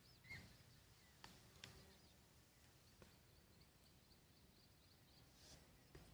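Near silence: faint outdoor ambience with small, high chirps scattered through it, typical of distant birds or insects, and a few soft clicks.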